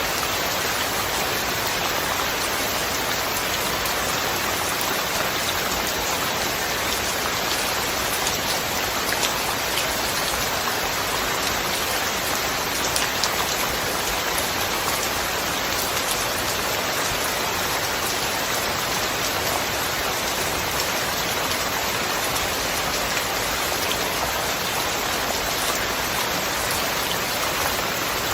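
Steady rainfall: an even hiss of rain on surfaces, with a few sharper individual drops pattering through it.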